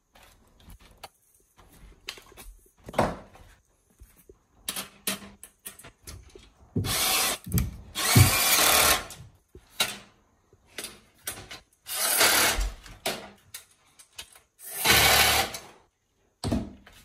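Power drill-driver running in four short bursts of about a second each, driving screws into the luggage basket's bars, with small clicks and knocks of parts being handled between the bursts.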